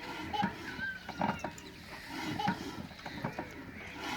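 Farmyard animals calling, short irregular calls and clucks.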